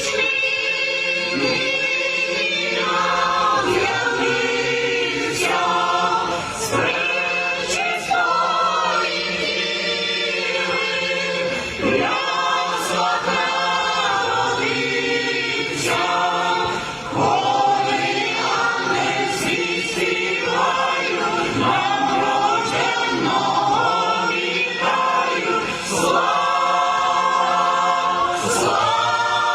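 Church choir of several voices singing a Christmas carol together, one continuous sung passage.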